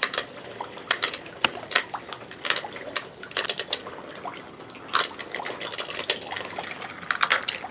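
Spinning Beyblade tops clacking against each other and the stadium in many sharp, irregular clicks, over a faint steady hiss. One top is losing speed and is near the end of its spin.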